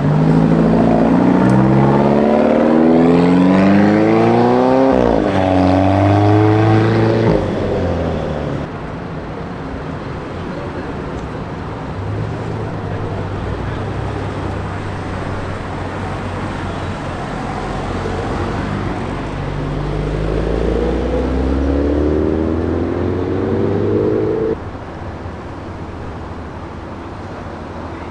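Modified cars accelerating hard away from the parking area, the engine note rising steeply for several seconds and then dropping. A low engine rumble holds between them, and a second car accelerates with a rising note about twenty seconds in.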